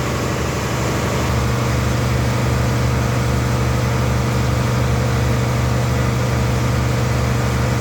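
Steady hum of running machinery with a strong low drone. About a second in, a higher tone joins and the drone grows stronger, then it runs on evenly.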